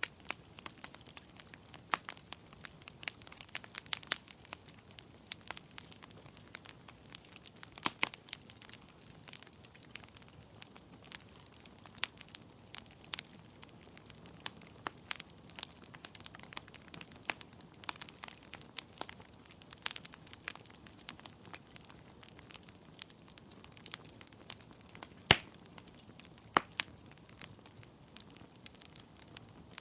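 Wood fire crackling in a fireplace: burning logs giving off frequent sharp pops and snaps over a low steady hiss of flame, with one louder pop about twenty-five seconds in.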